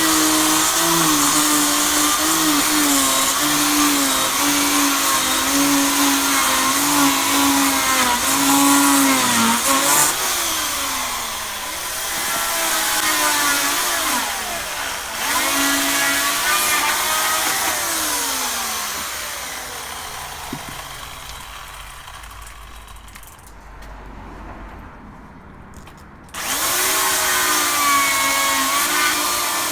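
Chainsaw engine running at high revs while bucking firewood logs into rounds. The revs fall away about ten seconds in and again a few seconds later, the sound then dies down, and it comes back at full speed abruptly near the end.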